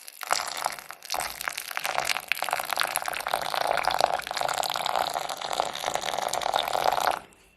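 Boiling water poured from a kettle onto kinetic sand: a steady splashing stream that stops abruptly about seven seconds in.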